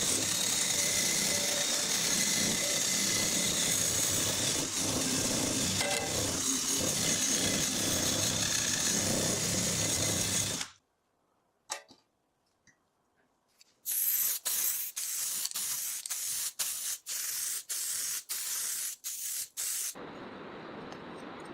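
A handheld power tool running steadily on a metal exhaust part for about ten seconds, then stopping. After a short pause it is worked in a quick run of short on-off bursts, followed by a quieter steady run near the end.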